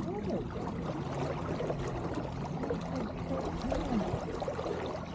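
Water gurgling and trickling against a sailboat's hull as it moves slowly through the water.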